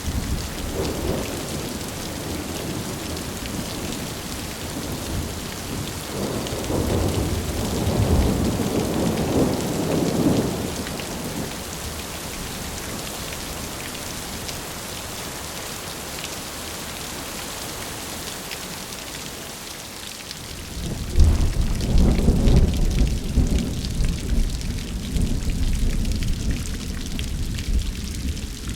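Steady rain falling, with thunder rumbling low twice: a swell about a quarter of the way in, and a louder, sudden rumble about three quarters of the way through that goes on rolling.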